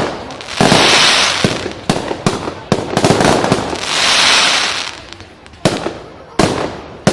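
Fireworks display: a run of sharp bangs from bursting shells, with two longer hissing spells, about a second in and again around four seconds in.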